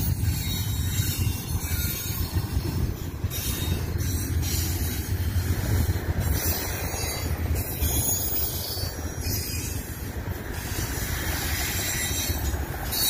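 A long Union Pacific intermodal freight train running past on the main line: a steady rumble of wheels and cars rolling on the rails.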